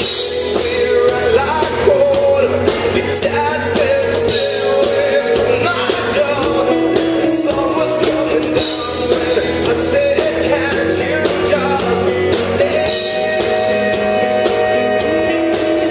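Live rock band playing a passage without lyrics, with guitars and pitched melody lines that bend and hold over a dense, steady backing.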